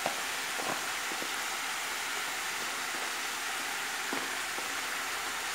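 Boiled green jackfruit pieces frying in hot mustard oil in a kadai: a steady sizzle, with a few faint clicks.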